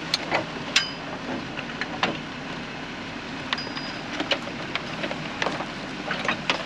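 Scattered sharp clicks and metal clinks of hands and tools working on a Jeep's wheel during a roadside flat-tire repair, at irregular intervals over a steady low mechanical hum.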